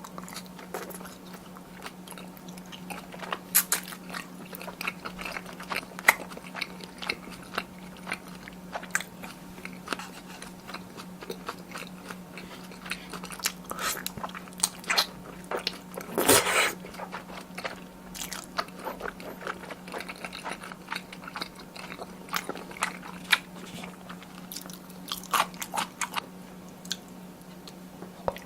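Close-miked eating sounds from a plate of brisket tteokbokki with glass noodles and cheese: chewing and mouth sounds with many scattered short sharp clicks and smacks, and one louder, longer burst about sixteen seconds in. A steady low hum runs underneath.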